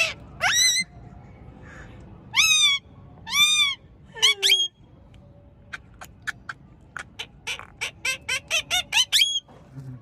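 Indian ringneck parakeet calling: three or four drawn-out squawks with a wavering pitch in the first four seconds, then a quick run of short clicks and chirps near the end.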